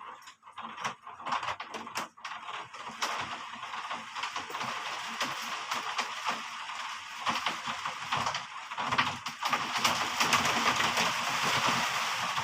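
Heavy rain falling, a dense hiss of countless small drop impacts that grows heavier about three seconds in and again near the end.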